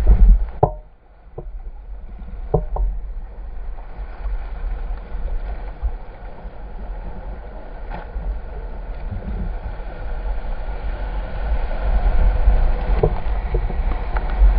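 River water rushing around a kayak, with wind buffeting the microphone as a heavy low rumble. A few sharp knocks come near the start and again later on.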